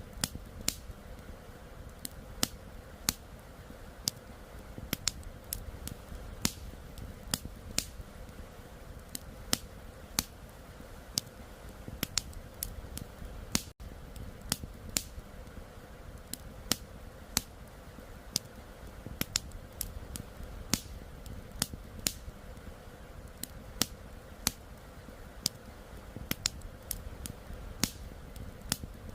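Wood campfire crackling, with irregular sharp pops and snaps, over a steady low rush of flowing river water. The sound drops out for a split second about halfway through.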